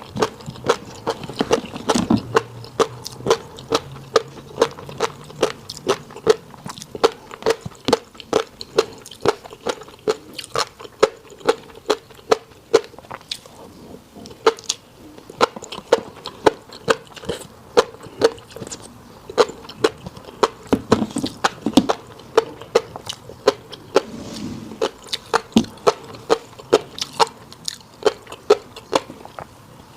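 Close-miked chewing of fish roe and rice: a steady run of sharp pops and clicks, about three a second, as the roe bursts in the mouth.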